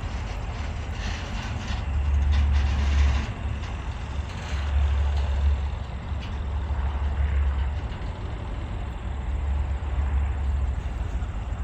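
Steady vehicle rumble, with low rumbling surges that come and go every second or two.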